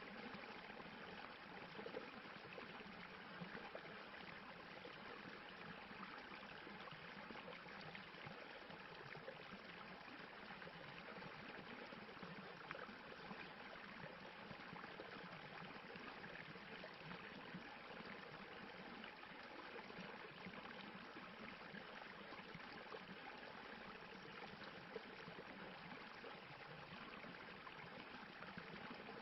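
Stream water running and splashing over rocks, a steady, even rush with no pauses.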